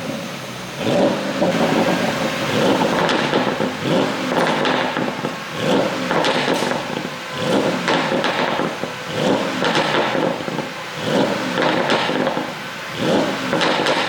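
Porsche Panamera GTS twin-turbo V8 exhaust, revved again and again in short throttle blips about once every second or so, with popping and crackling on the overrun from an ECU pop-and-crackle tune.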